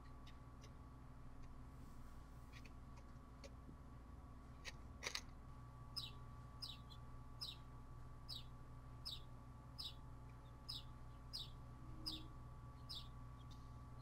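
A wild bird calling faintly outdoors: a few scattered chirps, then a regular series of about ten short, falling high notes a little under a second apart. A single tick sounds about five seconds in, and a steady low hum runs underneath.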